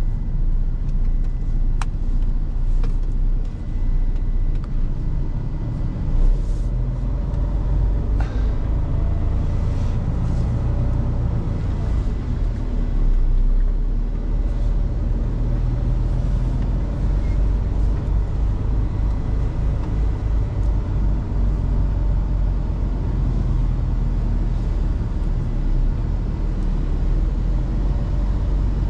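Heavy truck engine running steadily with a continuous low rumble, as when the truck is driving.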